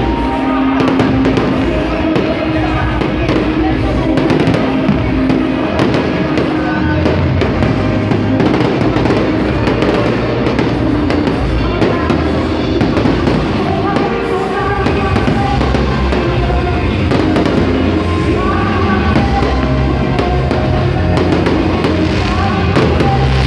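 New Year fireworks display: many fireworks going off in quick succession, over loud music with a beat.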